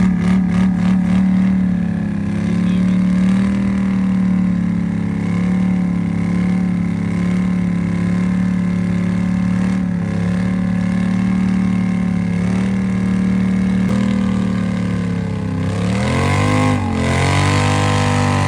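ATV engine running steadily under load while towing a vehicle stuck in mud. Near the end it revs up and down a few times.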